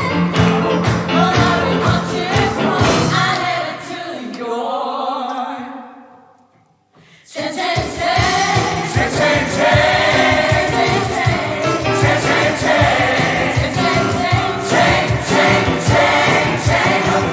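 Gospel choir singing with a band. About four seconds in the music thins to a held chord that dies away into a brief silence, then the choir and band come back in full with a driving beat.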